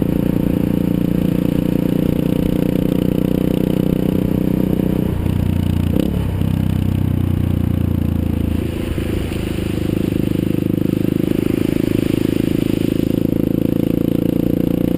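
A vehicle's engine running steadily while driving, its note shifting down and back about five to six seconds in.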